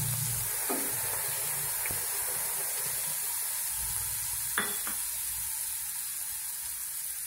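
Green chilli and garlic paste sizzling steadily in hot oil in a kadhai, with a few light clicks.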